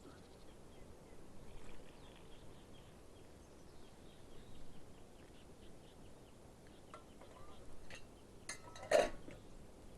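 Metal camp cookware clinking and knocking a few times, with one sharp, briefly ringing clink about nine seconds in.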